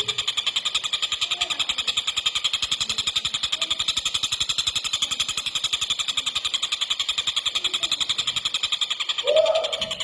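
Kingfisher (tengkek buto) calling in a fast, unbroken rattle of high notes, about ten a second. A short, louder, lower call breaks in near the end.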